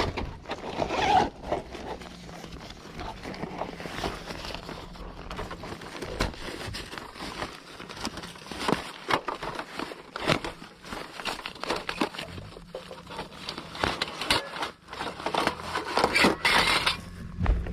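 Handling noises: scraping, rustling and irregular clicks and knocks, as of things being moved and set down.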